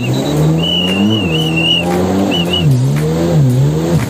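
Jet ski engine running under changing throttle, its pitch rising and falling several times, with a thin high whine cutting in and out.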